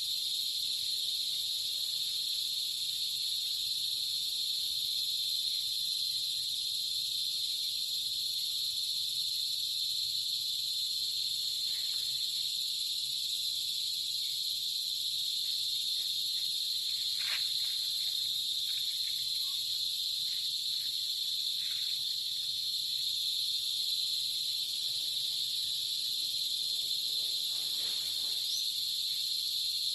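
Steady chorus of night insects, a continuous shrill drone at a few fixed high pitches, with a few faint short sounds from about halfway on.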